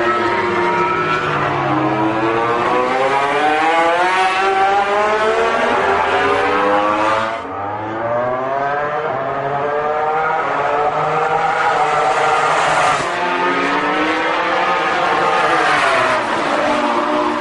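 MotoGP racing motorcycle engines at full throttle, the note climbing steadily through the gears and falling back as the throttle closes for braking, sharply about seven and thirteen seconds in.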